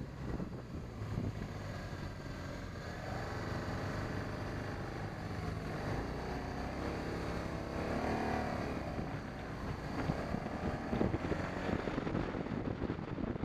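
BMW 650 GS motorcycle engine running under way, with wind rushing over the microphone. The engine's pitch rises and falls a few times in the middle as the revs change.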